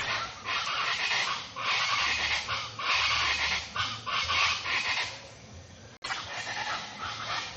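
A dense chorus of birds chattering and calling rapidly over one another. It breaks off for an instant about six seconds in, then resumes.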